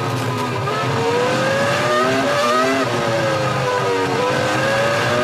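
A 2003 Formula One car's 3.0-litre V10 engine at high revs, its pitch climbing, dropping sharply at an upshift about two seconds in, then climbing again, easing down for a second or so and rising once more near the end.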